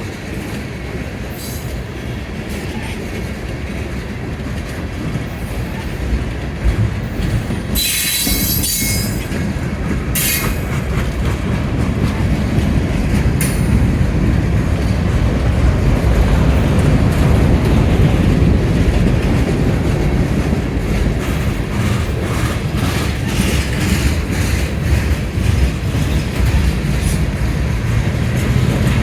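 Florida Gulf & Atlantic train rolling past, with wheels clacking over the rail joints and a brief high wheel squeal about eight seconds in. It grows louder toward the end.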